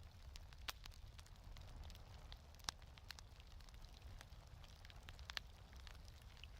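Fireplace crackling softly: scattered small pops and snaps, three sharper ones among them, over a low steady rumble.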